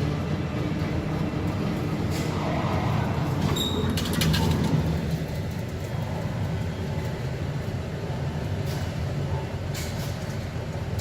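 Heavy diesel truck engine running steadily, with a few sharp clacks over it.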